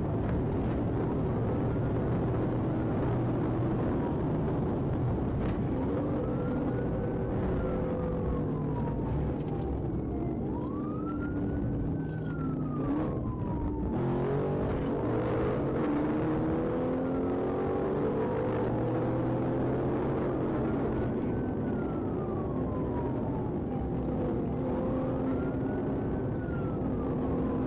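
Police car siren wailing, rising and falling slowly every few seconds, over a car engine running and road noise.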